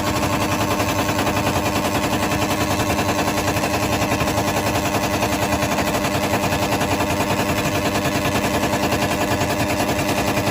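Fuel-injected Suzuki Satria F150's single-cylinder four-stroke engine running steadily through a loud exhaust, a fast, even stream of exhaust pulses.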